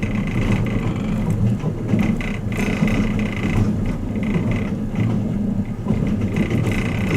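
Running noise inside a Kiha 87 series diesel-hybrid train car while it travels at speed: a steady rumble of wheels on the rails, with a few light clicks.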